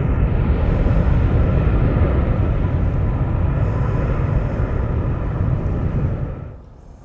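Jet airliner's engines, a loud steady rumble, cut off abruptly about six and a half seconds in.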